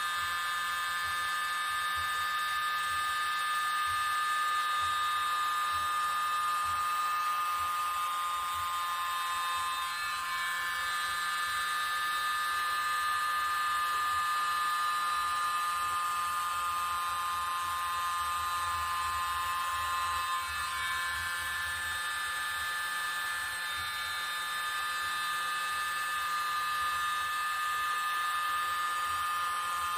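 Hair dryer running steadily, blowing poured acrylic paint across a canvas. A constant motor whine dips briefly in pitch twice, about ten and twenty seconds in.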